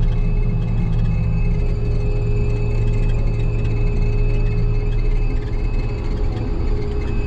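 Combine harvester running steadily under way, a constant low engine drone with a thin high whine over it.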